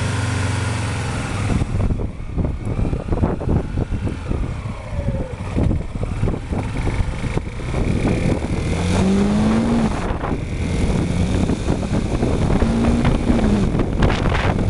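Motorcycle engine idling, then pulling away and running under load, with wind buffeting the microphone. The engine note rises and drops twice, around the middle and near the end, as it revs through gear changes.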